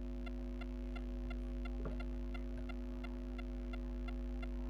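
Steady electrical hum with a faint, regular ticking about three times a second and a brief faint rustle about two seconds in.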